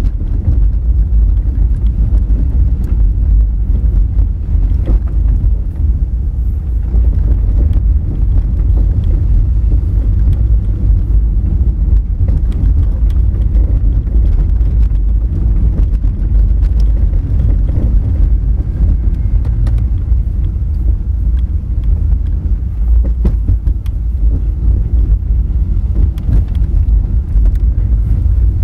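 Honda Fit driving over a rough gravel forest road: a steady, heavy low rumble of tyres and suspension on loose rock, with frequent small clicks and ticks from stones.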